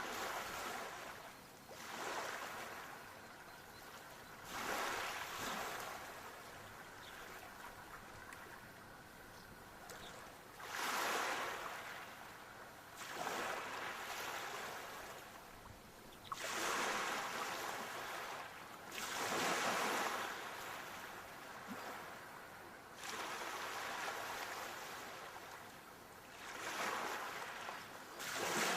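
Sea waves breaking, a swell of surf rising and falling every few seconds.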